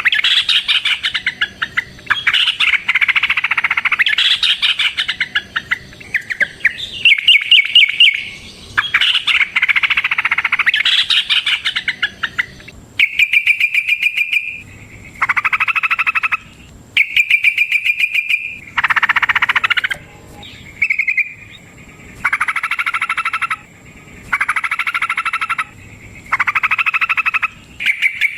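Yellow-vented bulbul (trucukan) singing in fast, chattering phrases. For the first dozen seconds the phrases are long and run almost together, then they come as separate bursts of about a second with short pauses between.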